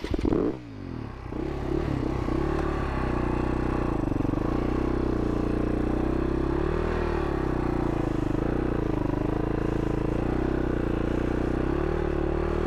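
2011 Husaberg FS570's big single-cylinder four-stroke engine running steadily at low revs, the revs dipping and picking up a few times, while the supermoto is worked in soft sand. A short clatter comes at the start.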